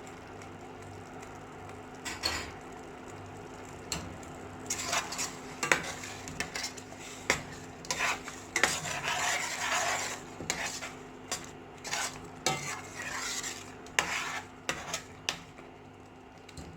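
A spoon stirring curry gravy in a metal pot, with irregular clinks and scrapes against the pan. The stirring is thickest about eight to ten seconds in.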